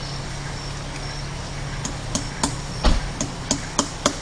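Repeated sharp strikes, as in chopping or hammering, beginning about two seconds in and coming about three times a second. A steady low hum runs underneath.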